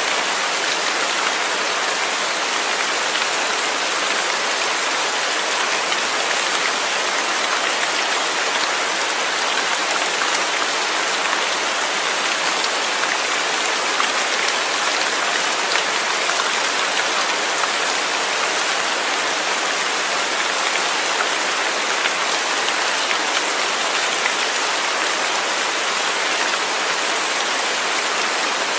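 Steady rain falling, an even hiss of drops on surfaces with no let-up or change in strength.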